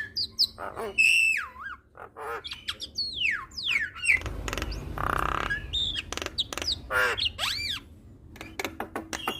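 Javan myna (jalak kebo) singing a varied song: gliding whistles sliding down and up, sharp clicks, and a harsh rasping call in the middle, ending in a run of rapid clicks.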